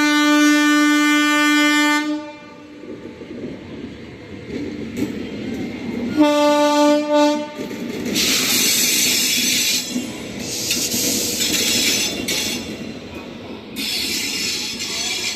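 Locomotive horn of an arriving Indian Railways express train: one long blast, then a shorter one about six seconds in. After it comes the loud rushing, high-pitched noise of the train's wheels on the rails, rising and falling in waves as the coaches roll past.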